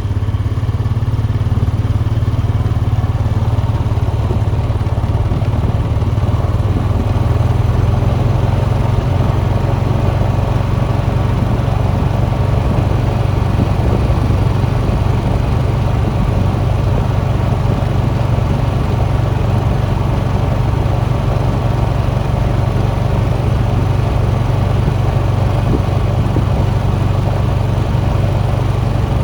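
ATV engine running steadily while riding, with a constant low engine drone.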